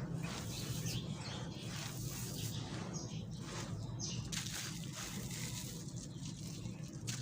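Dry black concrete crumbling, a continuous run of small crunches and crackles, over a steady low hum.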